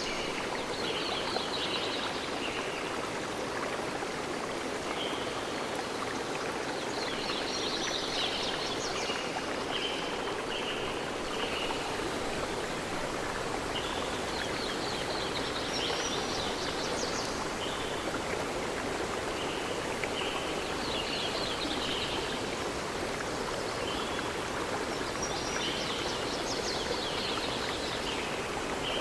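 A stream running steadily, with a songbird singing short phrases every few seconds over the water.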